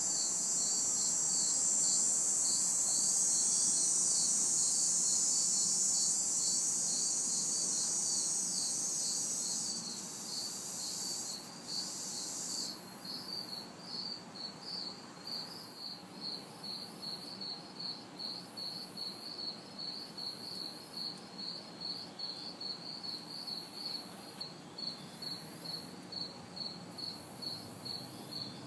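A night chorus of crickets and cicadas. A cricket chirps steadily at a high pitch, a few chirps a second, throughout. Over it a higher, steady cicada buzz is loudest at first and fades away about ten seconds in.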